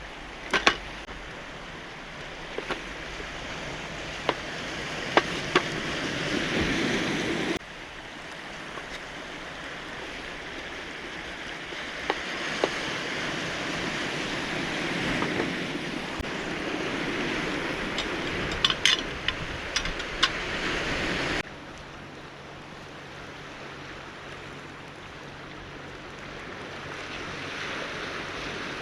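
Sea waves surging and washing on a cobble shore, the wash swelling and easing over several seconds, with a few scattered sharp clicks. The sound drops abruptly twice.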